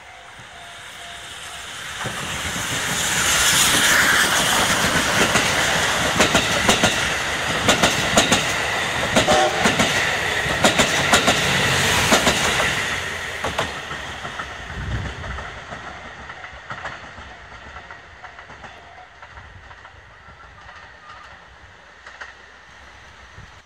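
Train hauled by the steam locomotive D51-200 passing close by. The noise builds over the first few seconds, and the wheels clatter over the rail joints for several seconds. It then fades away as the train leaves.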